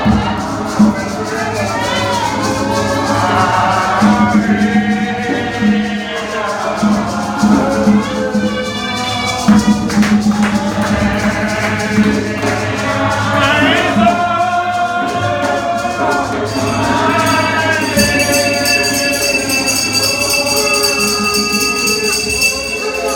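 Church congregation singing a gospel song, with a tambourine shaken in time.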